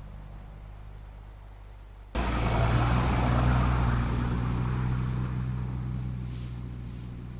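A motor vehicle engine running steadily. It becomes abruptly louder about two seconds in, then slowly fades.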